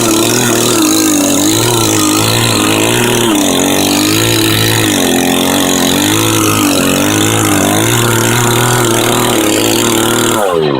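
Two-stroke chainsaw running hard while cutting wood, its pitch wavering up and down about once a second as the chain bites; just before the end the engine pitch falls off sharply.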